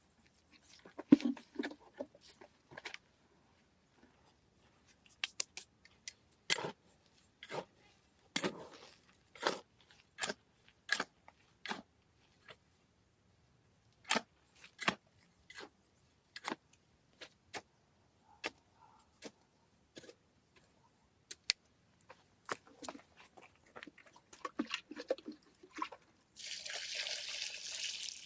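Irregular sharp knocks and clicks of hard objects being handled. Near the end, water pouring with a steady hiss.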